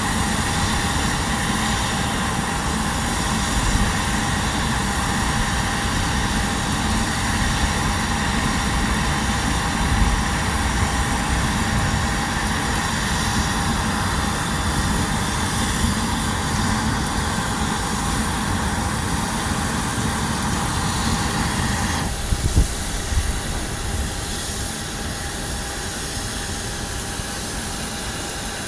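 Jet aircraft engines running steadily, a continuous noise with faint steady tones. About 22 seconds in the upper part of the sound drops away abruptly, with a few knocks around then.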